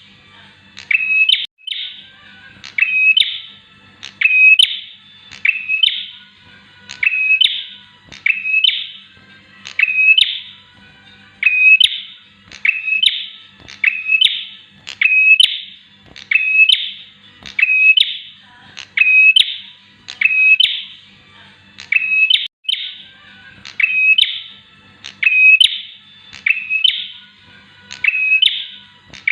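Bar-winged prinia (Javan prenjak) singing: a short burst of quick, high, chirping notes repeated at very even intervals, about once every one and a half seconds.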